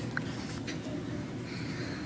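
Quiet room noise with a few faint rustles and small clicks.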